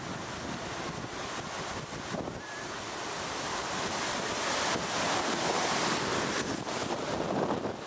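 Heavy storm surf breaking and rushing in, with strong wind buffeting the microphone; the rush of water builds from about a quarter of the way in and is loudest around the middle.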